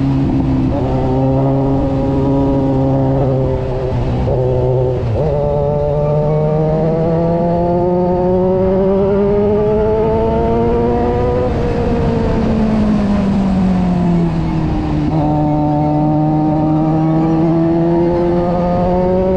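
Kawasaki Versys 1000 inline-four engine pulling under way. Its pitch climbs under acceleration with a gear change about five seconds in, falls off around the middle as the bike slows, then climbs again near the end, over a steady rush of wind.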